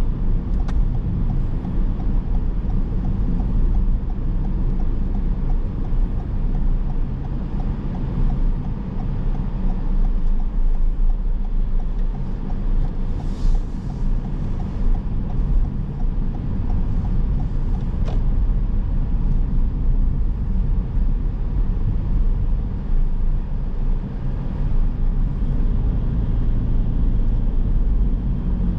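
Car on the move: steady low road and engine rumble, with a regular light ticking through the first half or so.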